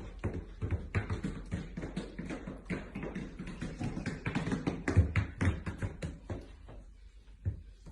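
A rapid, irregular series of light taps and knocks, several a second, loudest about five seconds in and thinning out near the end.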